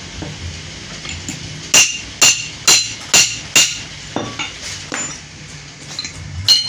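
Hammer striking metal: five sharp, ringing blows about half a second apart, then a lighter tap and one more blow near the end, as new crankshaft bearings are driven into the CD70 engine's crankcase.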